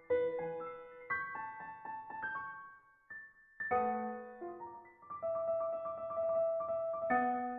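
Background piano music: a slow melody with chords, the notes struck and left to fade, with a short pause about three seconds in.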